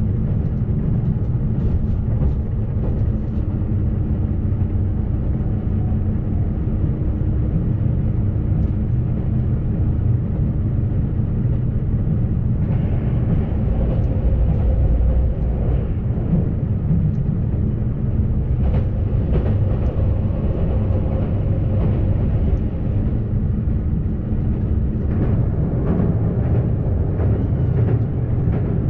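JR Shikoku 2700-series diesel railcar running at speed: a steady low rumble of engine and wheels on rail, with scattered short clicks from the track.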